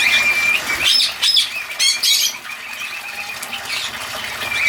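Pet aviary birds calling: a short, steady whistle-like note at the start, then a run of harsh squawks and chirps about one to two and a half seconds in.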